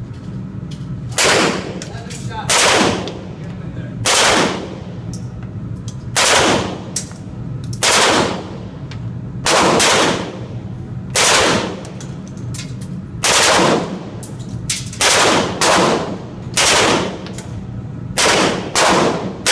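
Gun fired in single shots, about a dozen of them, one every second or two, each shot followed by a long echoing decay. A steady low hum runs underneath.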